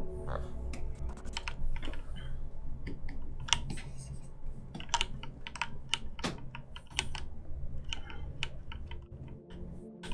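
Computer keyboard keys tapped in irregular short runs, with scattered single clicks.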